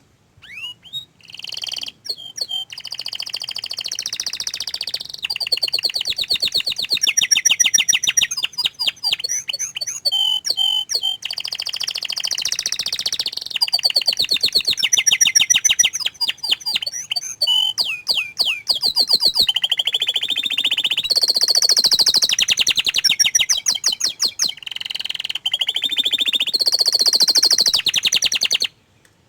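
Domestic canary singing a long, high-pitched song of rapid trills and rolls mixed with gliding whistled notes, with only brief breaks, cutting off suddenly near the end.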